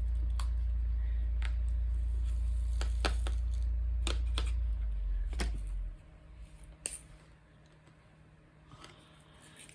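Diamond painting in progress: scattered light clicks and taps of a drill pen and resin drills being placed on the canvas. They sound over a low steady hum that cuts off about six seconds in.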